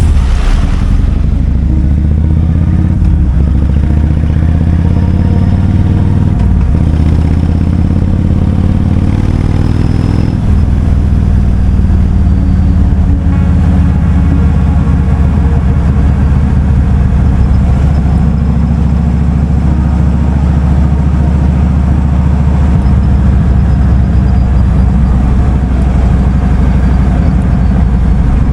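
Kawasaki Vulcan 2000's big V-twin engine running under way. Its pitch climbs for the first ten seconds or so as the bike accelerates, then drops and holds fairly steady.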